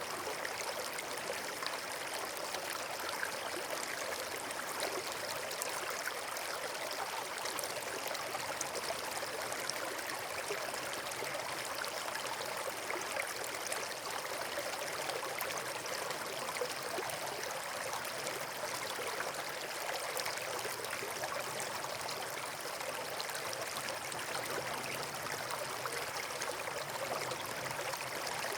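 Steady rush of flowing water from a stream or waterfall, an even hiss with no breaks or changes.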